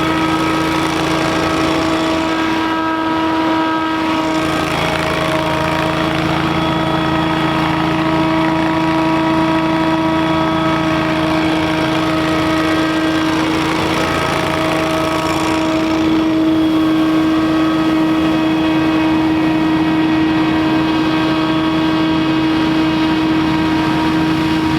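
Scag Windstorm stand-on leaf blower running steadily: a loud engine drone with one strong, constant tone.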